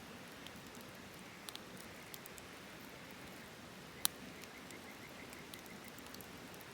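Wood campfire crackling: a steady low hiss with scattered small pops, and one sharp louder pop about four seconds in.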